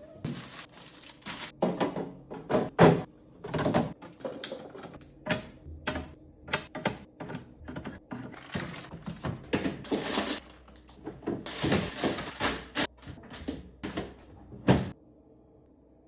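Food containers and jars being handled and set down on fridge shelves: an irregular run of clicks, knocks and thunks, with a louder knock near the end.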